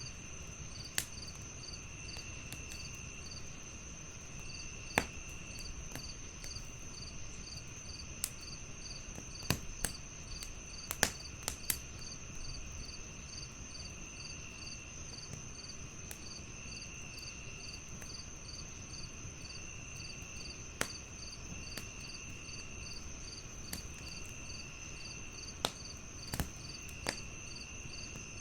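Crickets chirping in overlapping layers: a continuous high trill, a steadily pulsing chirp and a lower trill that switches on and off. Irregular sharp pops and crackles from a fireplace come through them, the loudest about five and eleven seconds in.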